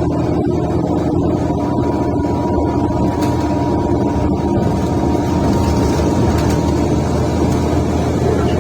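Diesel engine of a Mercedes-Benz O530 Citaro bus running steadily under way, heard from inside the bus, with the loud, rough exhaust note of a defective exhaust.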